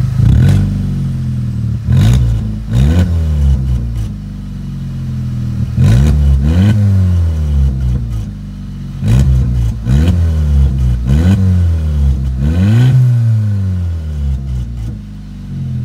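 Volkswagen Jetta 2.0 TSI turbocharged four-cylinder revved while standing: about eight or nine quick throttle blips, some in pairs, each climbing and falling back toward idle. It is heard from beneath the car, at an exhaust fitted with an electrically switched cutout valve.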